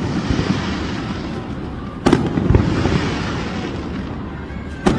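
Aerial fireworks display: a continuous crackle and rumble of bursting shells, with a sharp, loud bang about two seconds in and another near the end.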